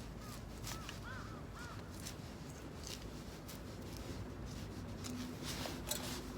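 A bird calling several short times in the first second and a half, over scattered sharp clicks and crackles, with a louder cluster of clicks near the end.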